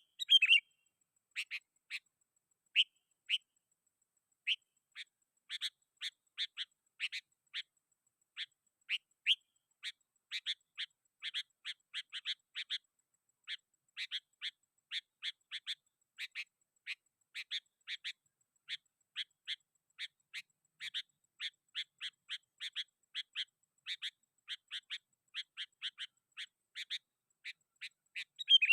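Sooty-headed bulbul calling in short, sharp chirps, a lure call meant to set other bulbuls calling. The notes are scattered at first, then come in quick runs of several a second from about five seconds in.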